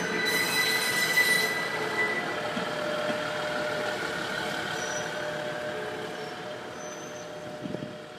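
Steel wheels of a two-car KiHa 110 diesel railcar set squealing on a slow shunting move through the station tracks. Several high, steady squeal tones ride over the running noise, and the sound slowly fades away.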